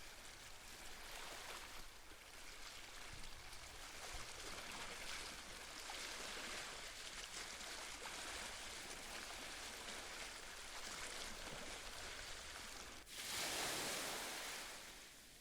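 Gentle sea waves washing on the shore as a steady hiss, with one louder wave rushing in about thirteen seconds in and fading away over a couple of seconds.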